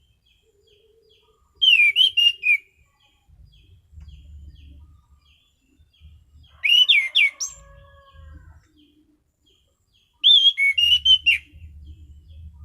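Anis cendana (orange-banded thrush) singing in three short, loud bursts of quick sweeping whistled notes a few seconds apart. Between the bursts there are faint, regular short chirps and a low rumble.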